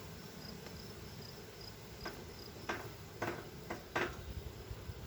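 Honey bees buzzing over an open hive. In the second half, a handful of sharp wooden clicks and knocks come as frames in the honey super are pried and lifted.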